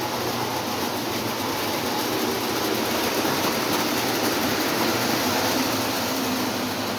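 Lionel O27 toy trains running on three-rail track: the steady whir of their electric motors and wheels on the rails, a little louder in the middle.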